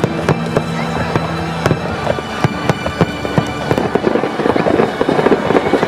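Fireworks going off in a quick series of sharp bangs, which thicken into dense crackling over the last two seconds. A steady low tone is held through the first second and a half.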